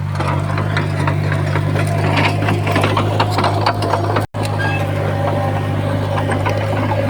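Diesel engine of heavy earthmoving machinery running steadily, with many sharp clanks and rattles over it. The sound drops out for an instant a little over four seconds in.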